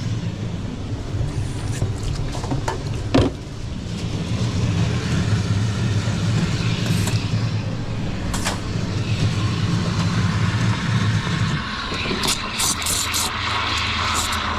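Espresso machine pump running with a steady low hum that cuts off near the end. A sharp knock comes about three seconds in, and light clinks follow the hum.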